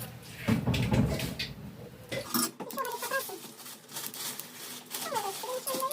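Metal clinking and rattling from a can-seaming key being handled, with short squeaks in the second half.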